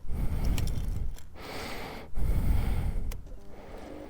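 Heavy, rhythmic breathing close to the microphone, in puffs about a second long with short pauses between them: a rider out of breath from exertion.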